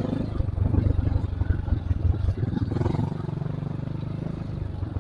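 Trail motorcycle engine running at low speed, a rapid low pulsing that steadies into a more even drone for a couple of seconds in the middle.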